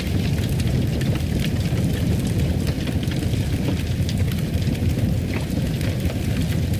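Fireplace fire crackling: a steady low rumble with scattered small pops and snaps.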